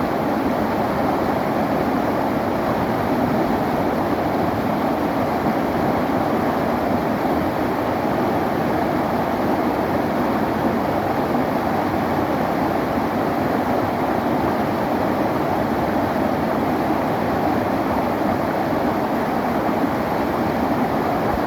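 River water flowing steadily: an even, unbroken rushing with no separate splashes.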